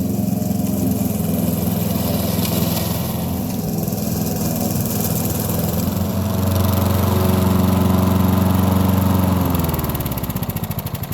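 Briggs & Stratton 450 series single-cylinder four-stroke lawnmower engine running steadily, a little louder for a few seconds. Near the end it is shut off and winds down, its pitch falling into slowing separate beats as it coasts to a stop.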